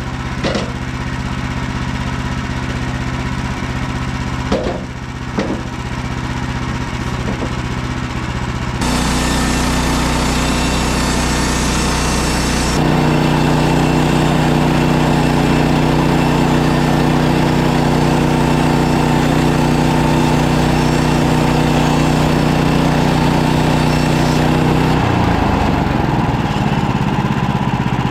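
Small gasoline engine of a portable bandsaw sawmill running at a steady low speed with a few clicks, throttled up about 9 seconds in, with a hiss over it for a few seconds, running steady at the higher speed, then winding down near the end.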